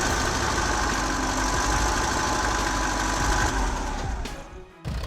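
Rolls-Royce C8 TFL diesel engine running steadily with a constant whine over its clatter, then winding down and dying away about four and a half seconds in.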